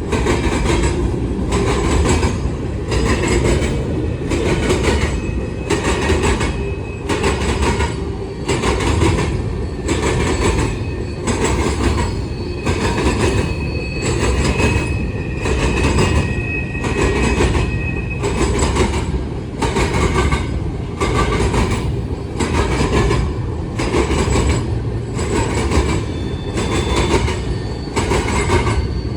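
Cars of a CSX grain train rolling past: a steady low rumble with a regular clack about once a second as wheels cross rail joints. A thin wheel squeal rises over it around the middle.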